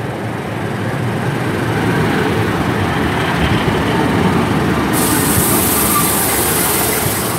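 Class 150 diesel multiple unit pulling into the station, its running noise building steadily. A loud high hiss starts suddenly about five seconds in.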